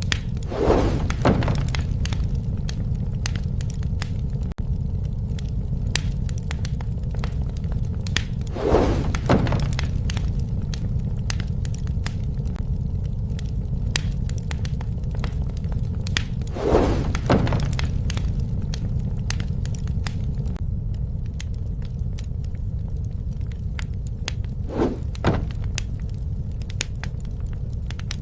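Bonfire burning with a steady low rumble and frequent sharp crackles and pops. A paired swell in the sound comes back about every eight seconds.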